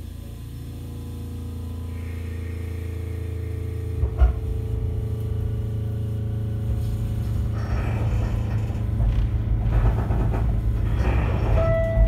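Inside an Echizen Railway MC7001 railcar (a rebuilt JR 119 series electric car): a steady low hum from the car's equipment, a sharp thump about four seconds in, then rumble and wheel clatter that grow louder as the train runs. A short tone sounds near the end.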